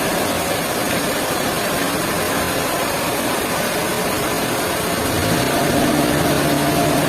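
Sawmill machinery running steadily: a dense mechanical noise with faint steady hums, getting a little louder about five seconds in.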